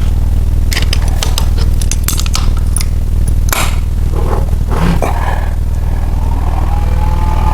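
Metal tools and engine parts clinking and scraping in short, irregular knocks, with one longer scrape about halfway, over a steady low hum.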